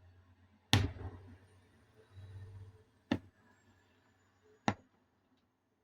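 Fireworks going off: a sharp bang about a second in that trails off in a low rumble, another low rumble soon after, then two shorter sharp cracks.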